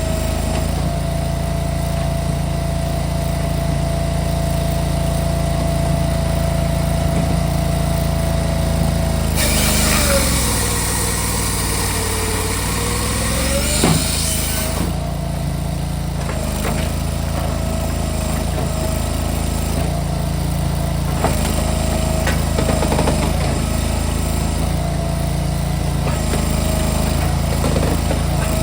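Cord King firewood processor's engine running steadily. For about four seconds near the middle its pitch pulls down under a load and then recovers, with a loud hissing noise over that stretch and a sharp knock as it ends.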